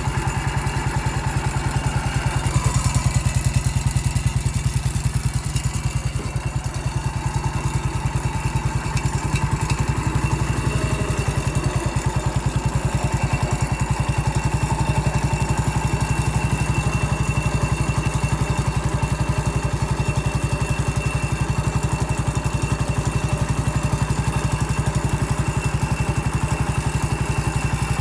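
Massey Ferguson MF 14 garden tractor's engine running steadily, its firing pulses close and even throughout, with a slight dip in level a few seconds in.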